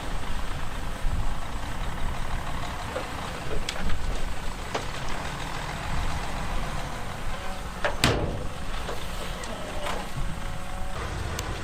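Heavy diesel earthmoving machinery running with a steady low engine rumble, broken by a few sharp metallic clanks, the loudest about eight seconds in.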